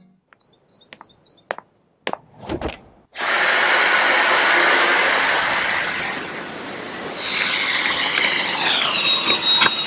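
A few short high electronic beeps and clicks, then about three seconds in a cordless stick vacuum's motor starts and runs with a high whine over a loud rush of air. Near the end the whine drops in pitch.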